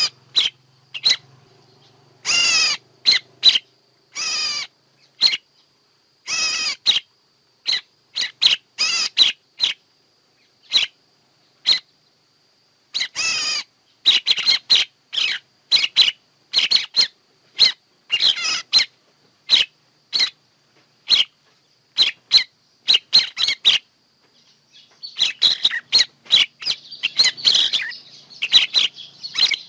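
Recorded bird calls used as a trapping lure: short, sharp high chirps in irregular runs with clean silent gaps, mixed with a few longer harsh calls. Near the end the calling turns into a denser, continuous chattering.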